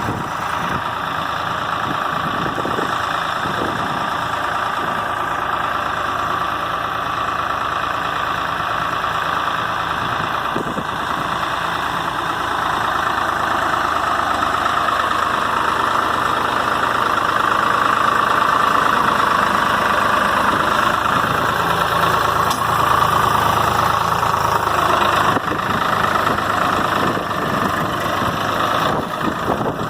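Swaraj 744 FE tractor's diesel engine running hard and continuously under heavy load, straining to pull a loaded dumper trailer while stuck. It gets somewhat louder about halfway through.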